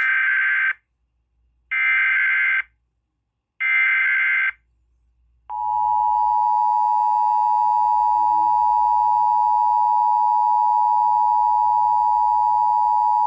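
Emergency Alert System opening a tornado warning: three roughly one-second bursts of harsh digital data tones (the SAME header), then the steady two-tone attention signal, held for about eight seconds.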